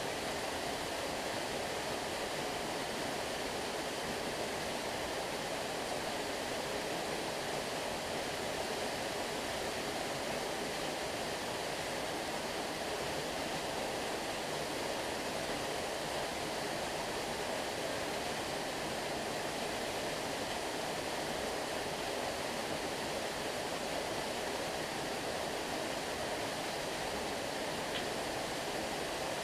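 A stream of water running, a steady even rush with no change in level.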